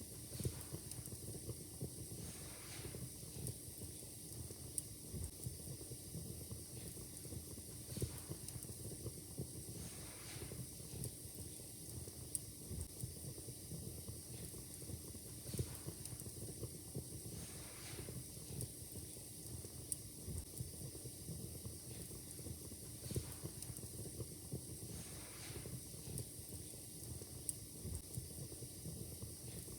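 Wood fire crackling in a fireplace: irregular sharp pops and snaps over a low steady rumble of burning, with a soft hiss that swells every few seconds.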